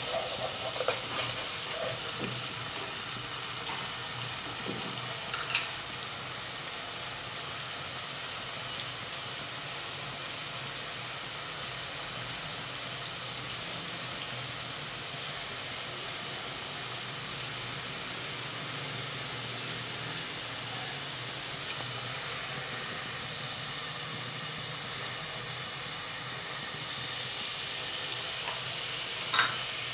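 Onion paste and ginger-garlic paste sizzling steadily in hot oil in a nonstick pot, with a few scrapes and taps of a steel stirring spoon in the first few seconds. The hiss grows brighter later on, and a single sharp click comes near the end.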